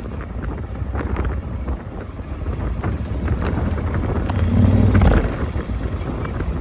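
Motorcycle running on the move, with wind buffeting the microphone.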